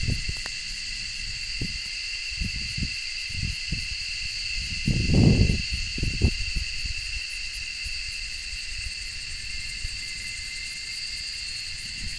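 A steady chorus of insects trilling at several high pitches. A few short low rumbles break in, the loudest about five seconds in.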